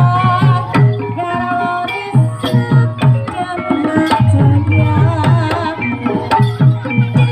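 Live Javanese barongan accompaniment: hand drums (kendang) beat a fast, even rhythm of deep strokes that drop in pitch, under a wavering held melody from a reed or voice, with the ensemble playing throughout.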